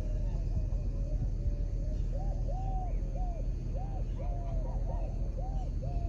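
A bird calls a quick series of short, clear notes, each rising then falling in pitch, about two or three a second, starting about two seconds in. A steady low rumble runs underneath.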